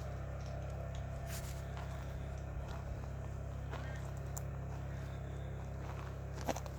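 An engine running steadily with a low, even drone, with a few light clicks and knocks over it.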